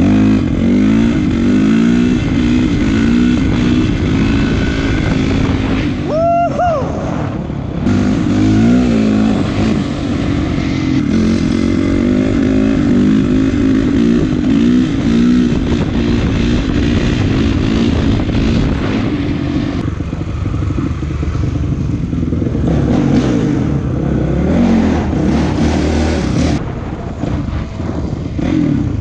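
Honda CRF450 dirt bike's single-cylinder four-stroke engine being ridden, revving up and falling back again and again as the throttle opens and closes, with a brief drop about six seconds in.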